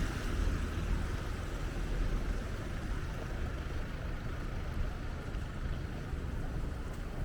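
Steady low rumble of road traffic, with no distinct passing vehicle.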